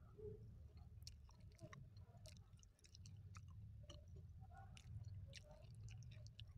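Quiet close-miked chewing of a biscuit, with scattered small crisp clicks of mouth sounds as it is chewed.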